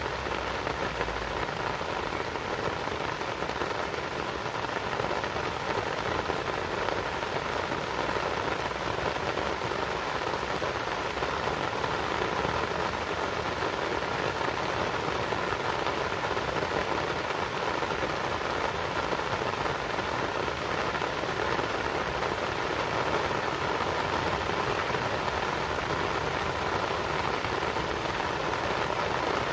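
Steady rain falling, an even hiss of drops that keeps the same level throughout.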